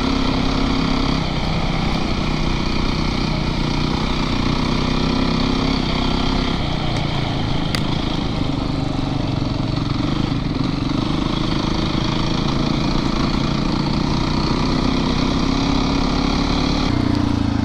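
Yamaha YZ450FX dirt bike's single-cylinder four-stroke engine running steadily on a trail ride, its note stepping up and down a few times as the throttle and gears change.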